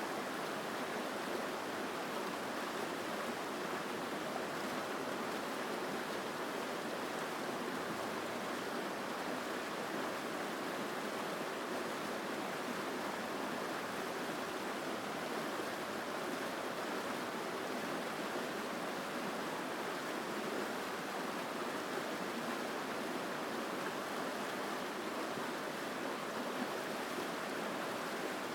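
Mountain stream rushing steadily over rocks, a strong, even sound of flowing water.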